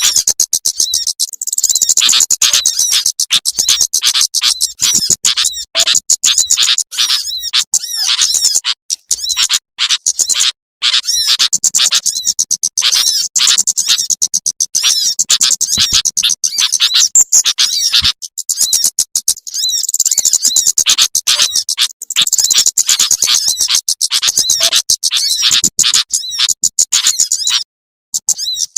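Lure recording of small songbirds such as sunbirds, played to draw birds in: a loud, dense stream of rapid, high-pitched chirps and twitters, with a few short breaks.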